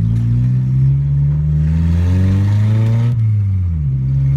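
Car engine running without its exhaust from the downpipe back: the revs climb for about three seconds, then drop and settle at a lower steady pitch.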